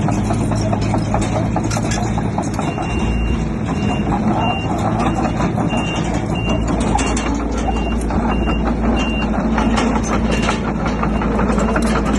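A heavy machine's reversing alarm beeping steadily from about three seconds in until near the end, over a diesel engine running hard with scattered knocks and clatter.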